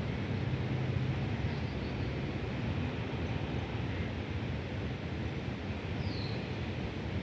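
Steady low rumble of a vehicle engine running, mixed with a hiss of wind on the microphone.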